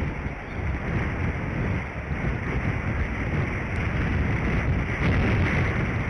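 Wind gusting across the outdoor microphone of a bald eagle nest camera, a low rumbling rush that swells and eases, strongest about five seconds in.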